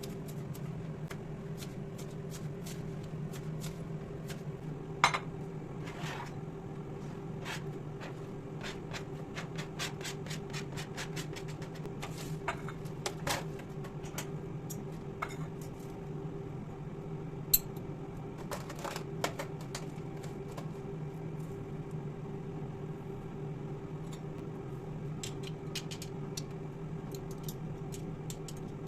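Dishes and utensils clinking and tapping in irregular clicks, two sharper knocks standing out, over a steady low hum from an appliance.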